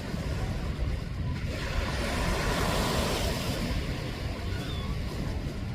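Sea waves washing on the shore, with wind rumbling on the microphone; one wave swells and fades from about two to four seconds in.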